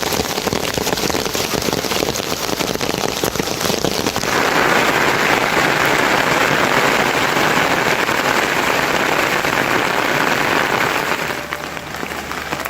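Heavy rain falling, a dense mass of drop impacts that grows heavier about four seconds in and eases slightly near the end.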